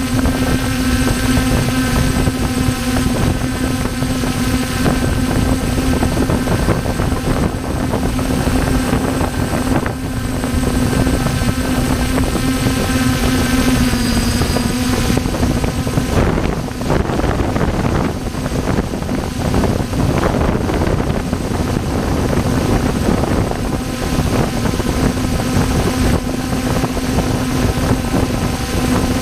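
Helicopter running steadily, a constant hum with a steady engine tone over a dense rush. The strongest tone fades out about halfway through and returns near the end, with gusty buffeting in between.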